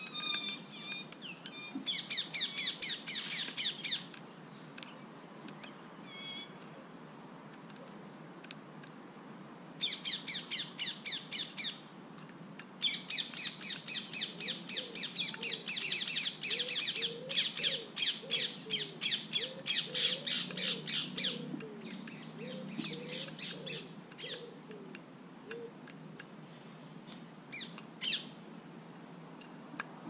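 Birds calling: runs of sharp, high repeated notes, about eight a second, in bursts of two to eight seconds, with scattered single notes between. A lower call repeats in arches underneath through the middle.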